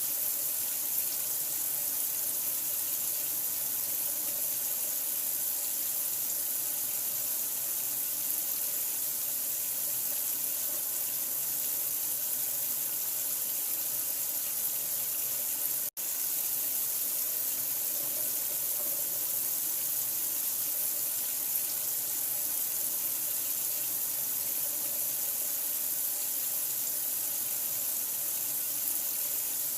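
Steady running water, an even hissing rush of white-noise-like water sound used to soothe a newborn to sleep, with a split-second dropout about halfway through.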